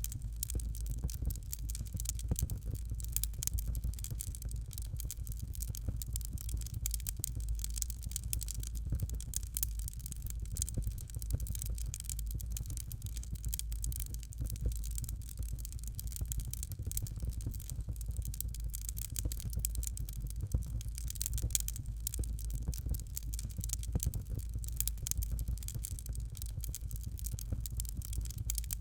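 Fireplace fire crackling steadily: dense, irregular small snaps and pops over a low, even rumble.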